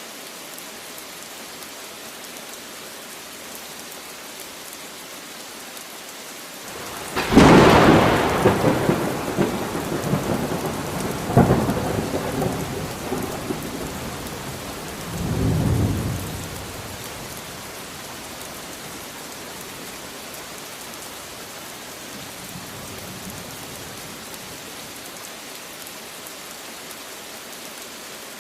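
Steady rain falling, broken about a quarter of the way in by a sudden loud thunderclap that rolls and crackles for several seconds, with a second sharp crack and a lower rumble following before it settles back to the steady rain.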